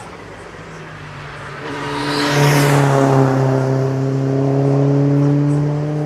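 Race car engine approaching and passing at speed, loudest about two and a half seconds in, its pitch dropping slightly as it goes by.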